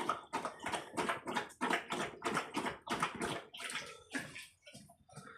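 A dog lapping water in quick rhythmic laps, about three to four a second, slowing and growing fainter near the end.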